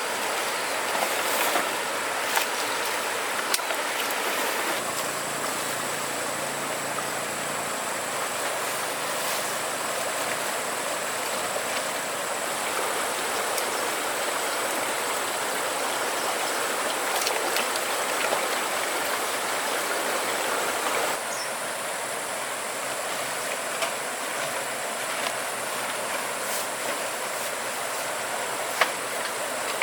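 Steady rushing noise of flowing river water, with a few scattered clicks and knocks.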